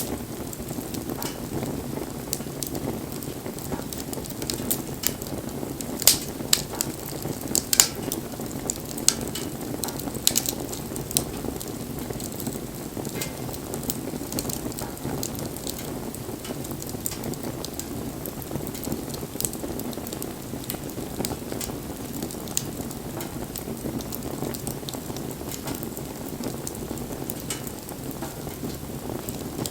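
Wood bonfire burning: a steady low rush of flames with frequent sharp crackles and pops, thickest between about six and eleven seconds in.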